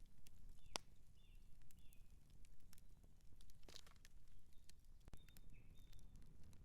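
Outdoor campfire crackling, with scattered sharp snaps and one louder pop near the start, over a low steady rumble. Faint short bird chirps come twice, early and again past the middle.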